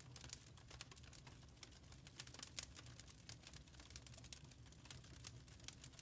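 Wood fire crackling faintly in a fireplace: irregular small pops and snaps over a low, steady rumble.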